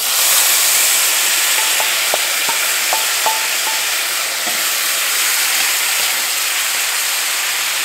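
Diced tomatoes hitting hot oil and fried onions in a cast iron skillet, setting off a loud, steady sizzle, while a wooden spoon stirs them. A few faint ticks come between about two and three and a half seconds in.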